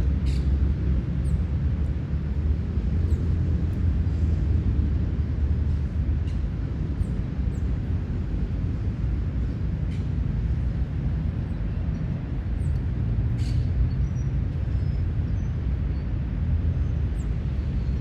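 Park ambience: a steady low rumble with scattered short, high bird chirps every second or two.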